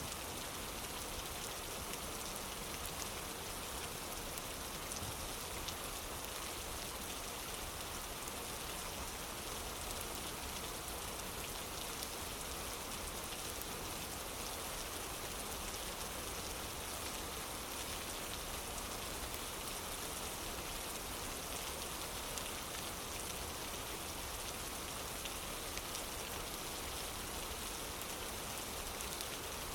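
Steady rain falling: an even hiss with many faint, scattered drop ticks, unchanging throughout.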